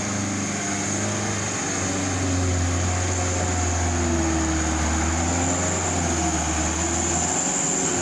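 Truck engine running steadily, its pitch shifting a little. The low drone grows stronger about two seconds in and dips briefly near the end, and a thin high whine sits over it.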